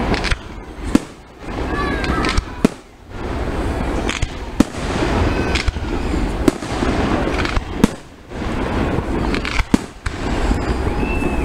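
Aerial fireworks going off close by: about a dozen sharp bangs of bursting shells, irregularly spaced, over a continuous rumble and crackle.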